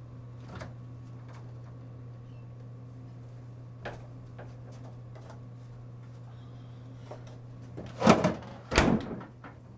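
A steady low hum with a few light clicks, then two loud bangs about a second apart near the end.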